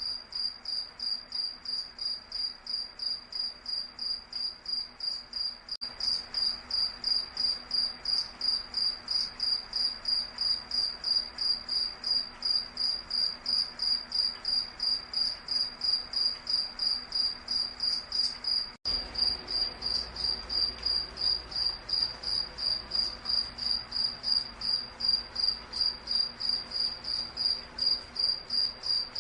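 Night insects, a cricket-type chorus, chirping steadily in a high, even pulse of about two to three chirps a second.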